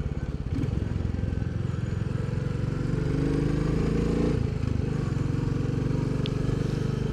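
Royal Enfield Bullet 350's single-cylinder engine running on the move, its pitch rising as it pulls harder about halfway through, dipping briefly, then holding steady.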